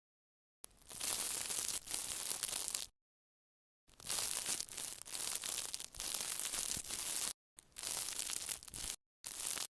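Close-miked ASMR trigger sounds: a dense noise made of many small crackles and clicks, cut into four stretches with dead silence between them. The first starts about half a second in, the longest runs about three seconds, and the last is brief, near the end.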